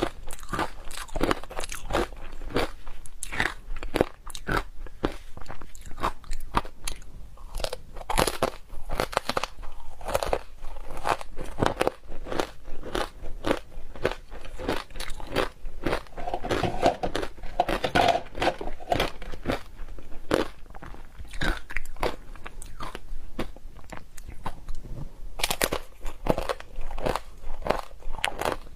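Close-miked biting and chewing of crunchy ice: a continuous run of sharp cracks and crunches, several a second.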